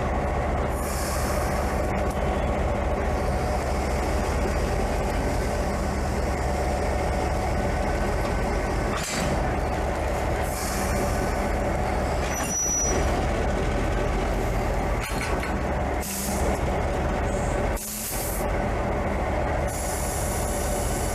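Passenger train running on the Tamsui line, a steady heavy rumble of wheels and running gear, with several short hisses, typical of air brakes.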